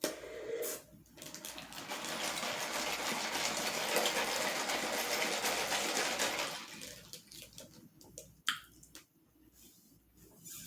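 Strawberry lemonade being drunk through a straw: one long sip of about five seconds with a crackly hiss, followed by a few short mouth clicks.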